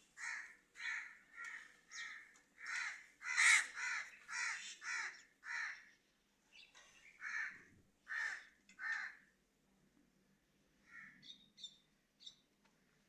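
A bird giving a run of loud repeated calls, about two a second, then a few more spaced calls, with fainter short calls near the end.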